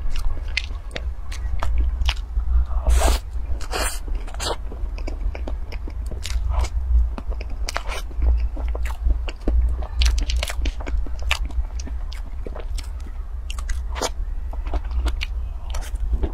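Close-miked eating of cream cake from a spoon: wet chewing and mouth clicks with a few crisper crunches about three to four seconds in, over a steady low hum.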